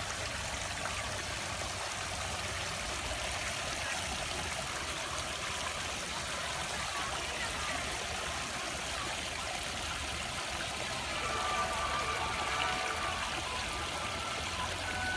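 Water running and trickling steadily, a continuous splashing rush. About eleven seconds in, a few steady musical tones start to sound over it.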